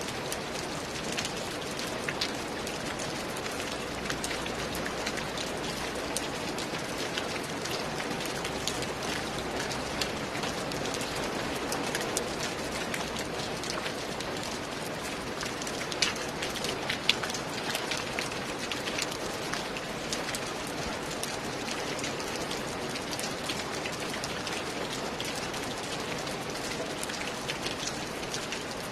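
Steady rain falling, an even hiss dotted with many sharp ticks of single drops close by, two of them louder just past the middle.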